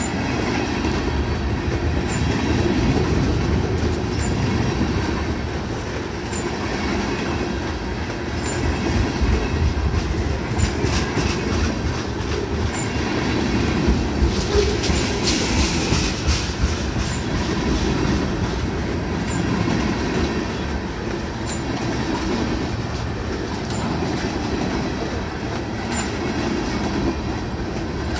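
Freight train of tank cars rolling past close by: a steady heavy rumble of steel wheels on the rails, with a run of sharp clacks over the rail joints in the middle and the loudest passage about halfway through.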